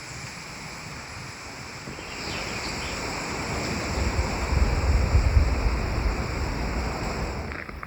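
Wind gusting on the microphone over a steady rushing outdoor ambience. It swells from about two seconds in, buffets hardest in the middle, and eases near the end.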